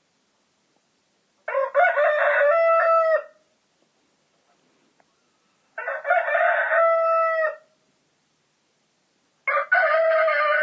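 Rooster crowing three times, each crow about two seconds long and ending on a held note, with dead silence between crows. The third crow starts near the end.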